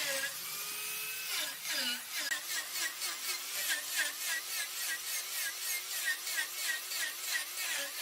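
Wood lathe turning a mahogany workpiece with a cutting tool against it, giving a scraping, whirring sound that pulses about three times a second, once per turn of the uneven piece.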